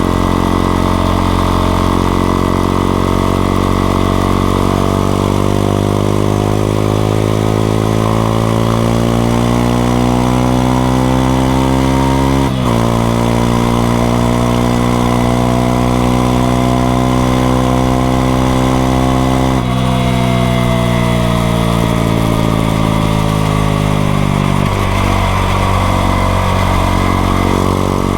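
Honda XRE 190's single-cylinder engine under way. It is steady at first, then its pitch climbs and drops sharply at two upshifts, about twelve and about twenty seconds in. It then falls away as the bike slows and settles to a steady note near the end.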